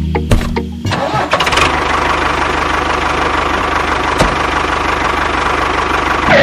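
A few clicks, then from about a second in an engine running steadily with a fine, fast rhythmic chug, in the manner of a tractor engine.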